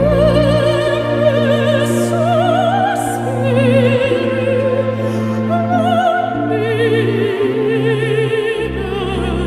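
Opera music: a high voice singing sustained notes with wide vibrato over low, held orchestral accompaniment.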